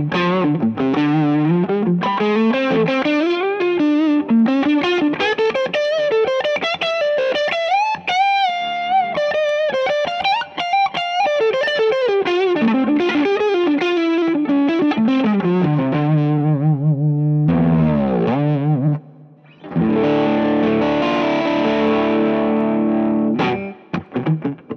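Electric guitar played through a Fractal Audio FM9 amp modeler with a distorted preset: fast single-note lead runs and a held note, a pitch dive about 18 seconds in, then a ringing chord.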